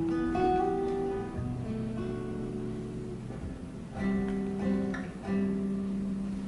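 Acoustic guitar playing the slow intro of a ballad: chords struck a few times and left to ring.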